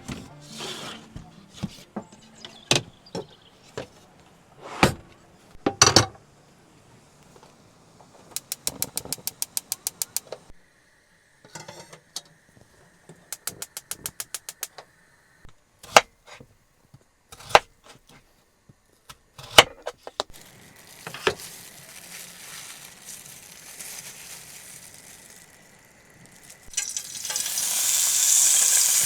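Food starts frying in a hot pan near the end, a loud dense sizzle. Before it come scattered knocks and clatter of kitchen items and two runs of rapid, even clicking.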